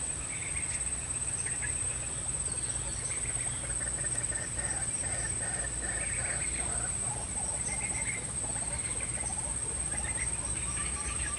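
Outdoor ambience: a steady, high-pitched insect drone, with scattered short bird chirps over it.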